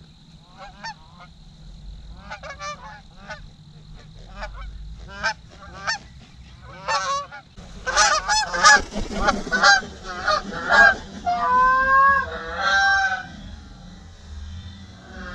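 A flock of geese honking, faint and scattered at first, then louder and denser from about halfway through as the birds come closer.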